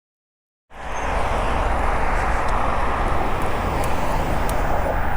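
Steady rushing noise with a low rumble that starts suddenly about a second in: wind on the microphone and bicycle tyres rolling on pavement during a ride.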